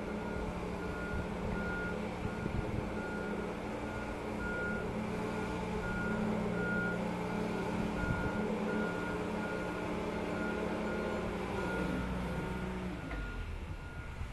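Warning beeper on a moving yacht transport machine, beeping about twice a second over the steady hum of its drive motor. Near the end the motor hum drops in pitch and fades as the machine slows.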